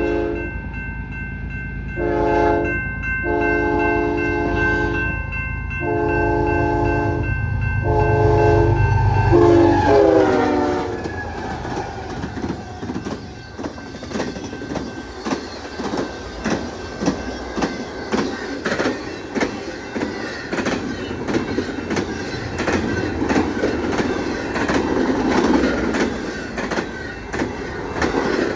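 Eastbound freight intermodal train passing at about 70 mph: the locomotive's multi-tone chord horn sounds several blasts over a low diesel rumble, the last one held as the engines go by, its pitch dropping. Then the rapid clickety-clack of the train's wheels over the rail joints as the cars rush past.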